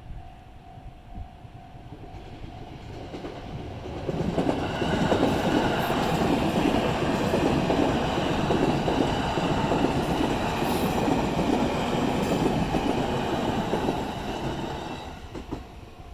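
A train passing over a level crossing. The rumble and clatter of its wheels on the rails builds over the first few seconds, stays loud for about ten seconds, and dies away near the end.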